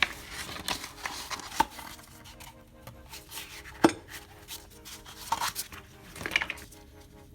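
Metal tools and engine parts being handled, with irregular clinks, knocks and scrapes; the sharpest knock comes about four seconds in.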